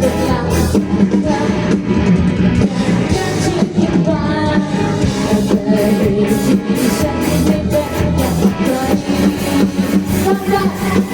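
Live rock band playing loud and amplified: electric guitar and drum kit, with a singer's voice over them.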